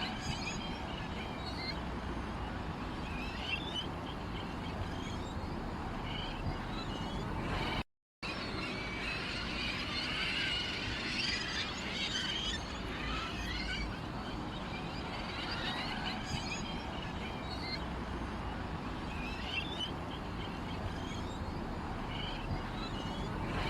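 Small songbirds chirping and twittering in quick, overlapping calls, busiest about halfway through, over a steady low background hum. The sound drops out completely for a moment about eight seconds in.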